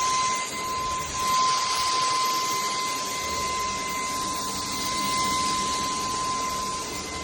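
CAMIY 580 W cordless stick vacuum running on its maximum power setting: a steady high motor whine over a rush of air.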